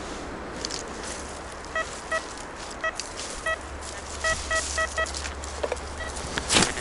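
Metal detector giving a series of short, same-pitched beeps, about eight in a few seconds, as the coil sweeps over a buried metal target. Under it is a steady low rumble of wind and road traffic, and a loud crunch comes near the end.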